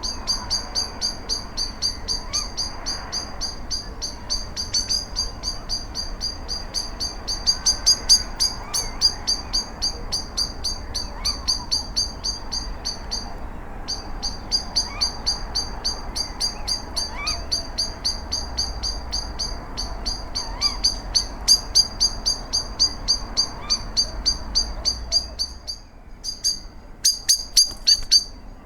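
A bird repeating a short, high-pitched note about four times a second in long unbroken runs, with a brief pause about halfway through and another near the end.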